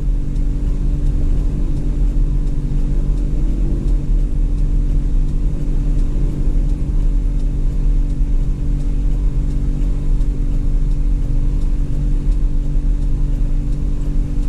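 Truck's diesel engine running at a steady speed: a low, even rumble that doesn't rise or fall.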